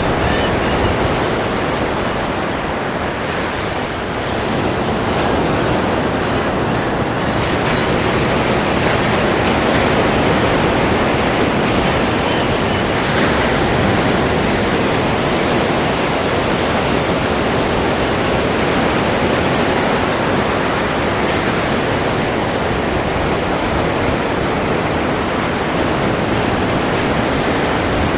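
Ocean surf washing in a continuous rush of noise, easing briefly about four seconds in before the wash builds again; the hiss turns suddenly brighter a few seconds later.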